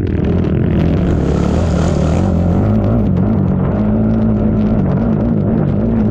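ATV engine running hard under racing load, its pitch rising and falling as the throttle works, with a rush of higher noise about a second in that lasts a second or so.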